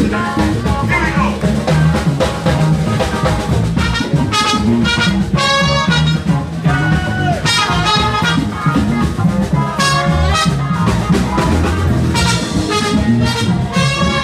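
Live band with horns playing jazzy, swing-style music, loud: horn phrases over a steady bass and drums.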